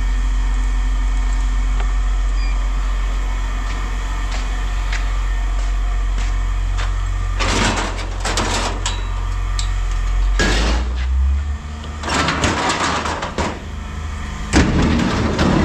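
A vehicle engine idling steadily, with scrap metal clattering and scraping in several short bursts during the second half.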